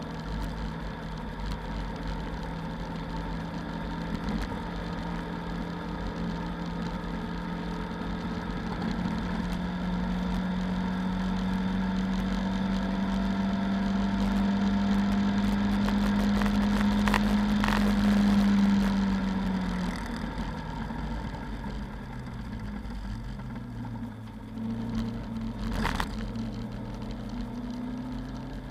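Lada 2109's four-cylinder engine heard from inside the cabin, pulling hard with its note climbing slowly for several seconds. The note falls away about two-thirds of the way through and settles lower, with a sharp knock near the end.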